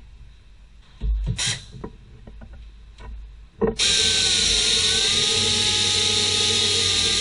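Power tool, such as a drill, starts a little past halfway through and then runs steadily at speed with a high whine. It follows a few knocks and a brief hiss from handling.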